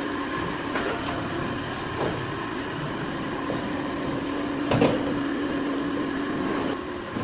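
Workshop noise: a steady mechanical hum with a few sharp knocks or clanks, the loudest about five seconds in.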